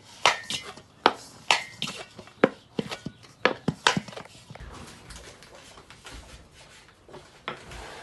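A rapid series of sharp knocks and taps on a kitchen board, about a dozen in the first four seconds, then only faint handling sounds, as dumpling dough is worked.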